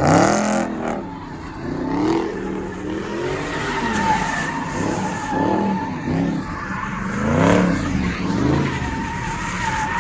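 Car engine revving up and down repeatedly while the tyres squeal steadily against the pavement, wheels spinning as in a burnout or donuts.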